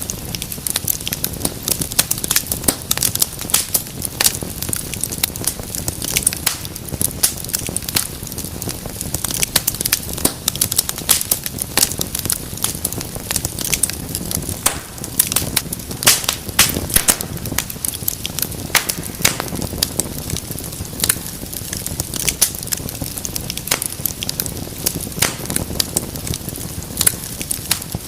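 Wood fire burning with continuous crackling: many sharp pops and snaps over a steady hiss.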